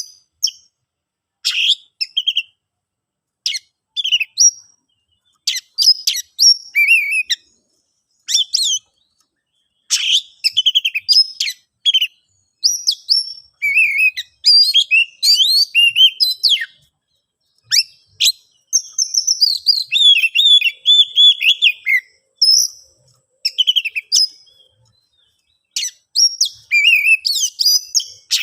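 Oriental magpie-robin (kacer) singing an agitated, fighting song: loud, varied phrases of sliding whistles and sharp chirps in bursts with brief silent gaps, and a longer unbroken run of song past the middle.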